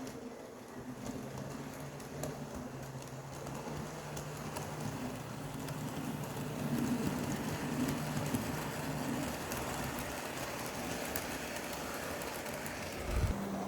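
HO scale model locomotive running on the layout: a steady low motor hum that shifts in pitch, with the rolling rattle of wheels on the track and faint clicks. A brief low thump comes near the end.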